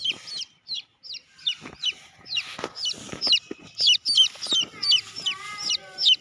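A bird calling over and over in short, high chirps, two or three a second, each dropping in pitch, with a few soft knocks among them.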